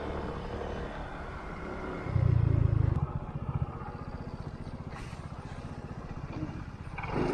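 Motorbike engine running under way, with a steady low pulsing. A louder low rumble comes for about a second, a couple of seconds in.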